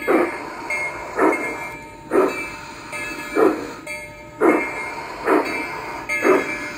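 Recorded steam-locomotive chuff played through the sound unit of a model locomotive tender: seven slow, evenly spaced exhaust chuffs, about one a second.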